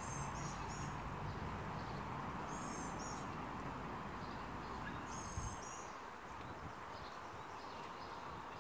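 Outdoor ambience with a bird calling from the trees: three short, high chirping phrases about two and a half seconds apart, over a steady background hiss. A low rumble underneath fades out about halfway.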